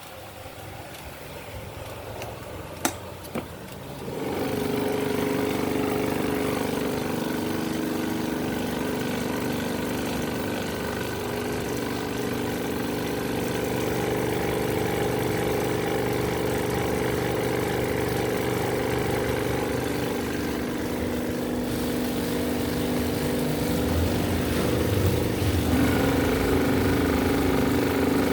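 Several small electric fans running together, their motors humming steadily under the whir of the blades. A sharp click comes about three seconds in, the sound grows much louder about a second later, and it rises again near the end.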